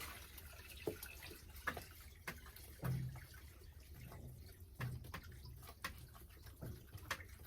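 Faint water dripping and small splashes in a drum of freshly poured water, heard as scattered short drips.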